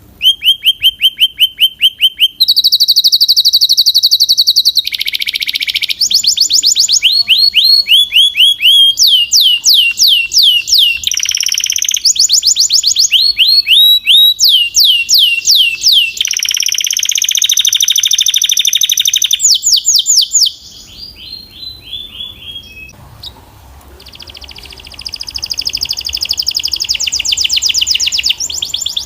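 Belgian canary singing loud, fast trills: runs of rapidly repeated sweeping notes, each run changing pitch and pace every second or two. About two-thirds of the way through the song drops to a softer, quieter passage, then builds back to loud trilling near the end.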